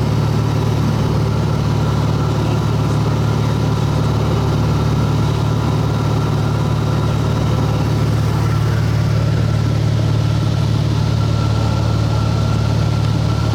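Light aircraft's piston engine and propeller droning steadily, heard from inside the cabin in level cruise.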